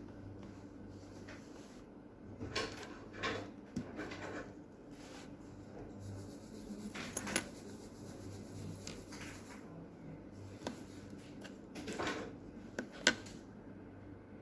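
Small handling noises: scattered light clicks and brief scrapes, a few seconds apart, over a steady low hum.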